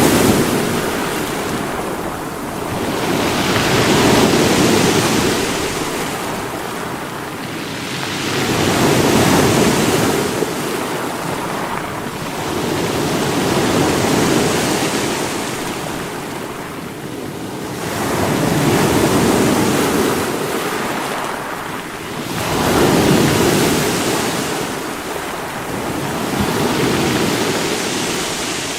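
Sea waves breaking against rocks, surging and draining away in slow swells about every four to five seconds.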